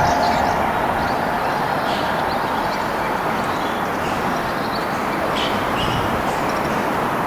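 A train approaching the station, a steady rumbling noise of wheels on rail, with small birds chirping briefly a couple of times.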